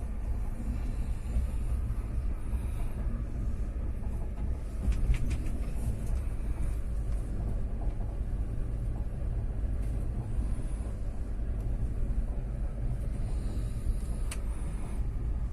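Express passenger train in motion: a steady low rumble of wheels on the track. Sharp clicks come about five seconds in and again near the end.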